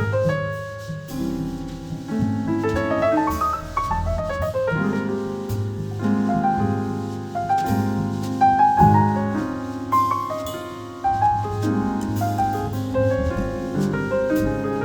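Live jazz quartet playing, with the piano in front: runs of single notes over held chords, double bass and drums beneath.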